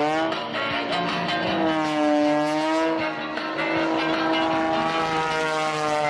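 Single-engine aerobatic plane's 300-horsepower piston engine and propeller running at power, its pitch rising and falling slowly as the plane manoeuvres.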